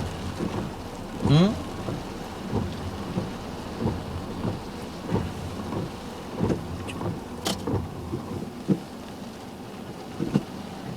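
Heavy typhoon rain beating on a car, with many irregular dull thumps of large drops over a steady hiss. A brief rising squeal comes about a second in, and a sharp click about halfway through.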